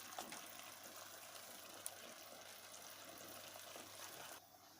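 Faint, steady watery hiss from the pan of chicken as the ground masala and water go in. It cuts off about four and a half seconds in.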